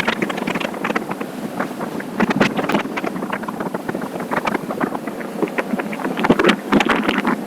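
Wind buffeting the microphone of a moving motorcycle, with road and engine noise underneath, crackling in uneven gusts.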